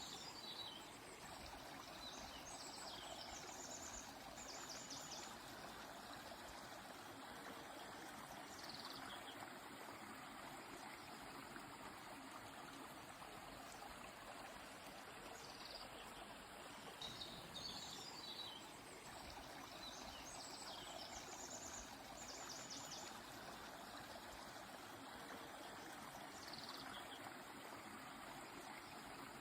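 A river's steady rush of flowing water, with a small bird calling high above it every few seconds: short falling chirps and quick trills.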